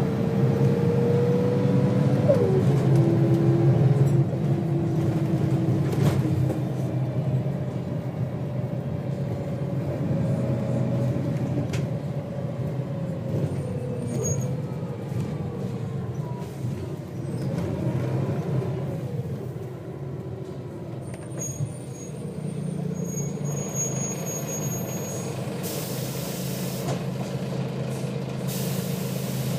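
Volvo B6BLE bus diesel engine running under way, heard from inside the bus, with its ZF automatic gearbox changing gear: the engine note rises, then drops suddenly about two seconds in. About three quarters of the way through the gearbox kicks down and the engine note swells. Two short bursts of air hiss come near the end.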